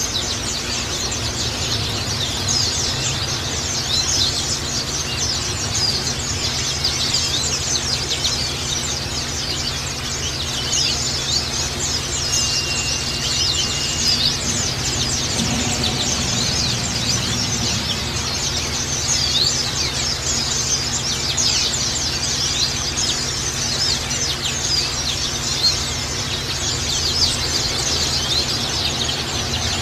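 A flock of white-eyes (Zosterops), many birds chirping at once in a dense, continuous chatter of short high calls, over a steady low hum.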